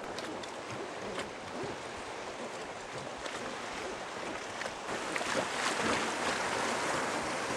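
Steady rushing of river water, growing louder over the last few seconds, with scattered small knocks and splashes.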